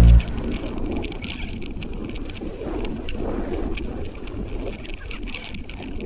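Typhoon wind rumbling on the microphone, with scattered sharp ticks of raindrops.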